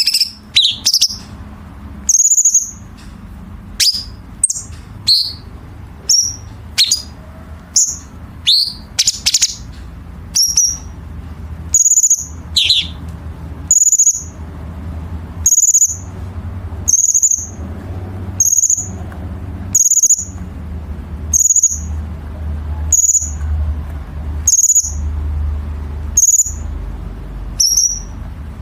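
Cucak cungkok singing sharp, high call notes. A varied run of calls comes first, then a single high note is repeated about every second and a half. A steady low hum runs underneath.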